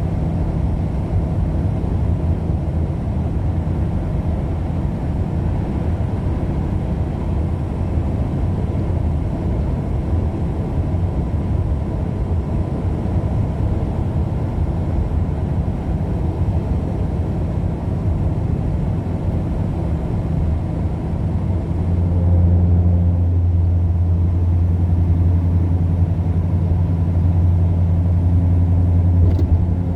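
A car driving at road speed: a steady low rumble of engine and tyre noise, which grows louder and heavier about two-thirds of the way through.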